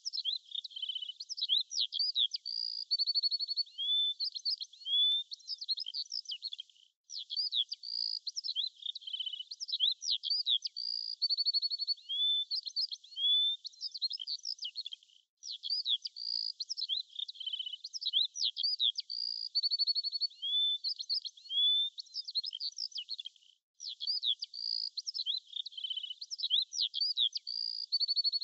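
Birdsong of chirps, trills and whistled glides, a short recording looped about every eight seconds, with a brief gap of silence between repeats.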